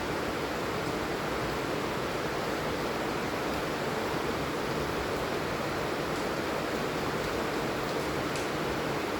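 Steady heavy rain falling, an even hiss with no pauses.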